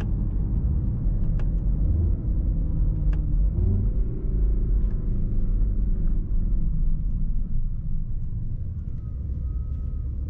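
Low, steady rumble of a Mercedes-AMG S63 E Performance driving, heard inside the cabin. A drivetrain note rises about three and a half seconds in and then slowly falls away.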